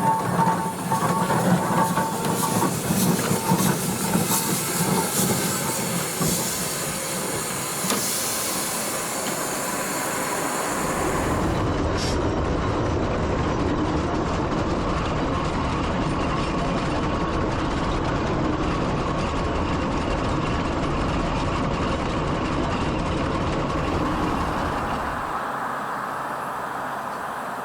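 Steam traction engine on the move along the road, with hiss and mechanical clatter. About eleven seconds in the sound shifts to a steadier, deeper rumble.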